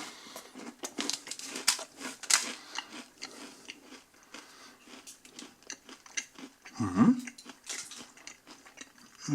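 A person chewing a mouthful of a Nature Valley Crunchy Oats & Honey granola bar: irregular dry crunches of the hard, dry oat bar being bitten down.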